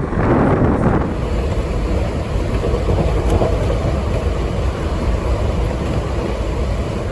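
Howrah–Katihar Express passenger train running along the line: a steady low rumble and rushing noise from the moving coach, a little louder in the first second.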